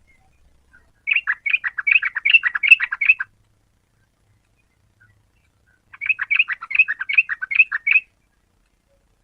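Yellow-vented bulbul singing: two bursts of rapid, bubbling chattering notes, about two seconds each, the second starting around six seconds in.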